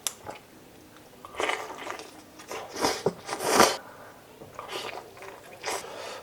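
Close-miked mukbang eating sounds: biting into and chewing chicken adobo, in several separate noisy bursts, the loudest about three and a half seconds in.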